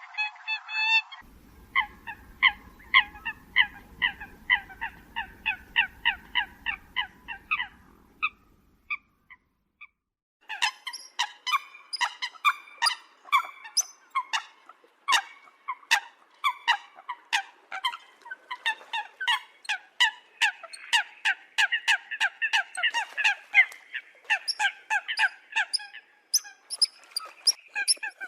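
Eurasian coots calling: short honking notes repeated about two or three a second, stopping briefly about 8 seconds in, then resuming as dense, overlapping calling from several birds.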